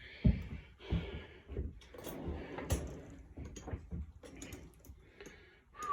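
Open-end wrench clicking and knocking against a tight 1/2-inch center bolt on a snowmobile secondary clutch as it is strained to break the bolt loose. Scattered sharp clicks and dull knocks come at uneven intervals.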